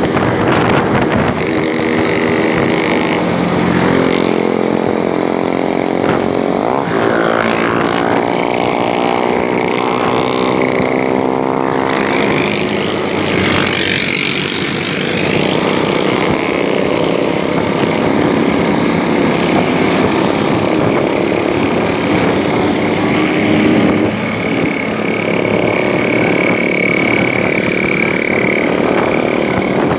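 Motorcycle engine running under way, its pitch rising as it accelerates several seconds in, then holding steadier.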